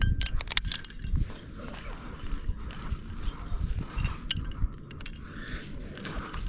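A rock climber moving on the wall on lead: a run of sharp clicks and clinks from metal climbing gear and hands on rock, densest near the start, over low rumbling handling noise on the microphone.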